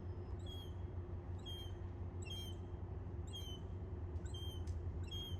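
A hungry young animal giving short, high, downward-sliding begging calls, about one a second. A steady low hum runs underneath.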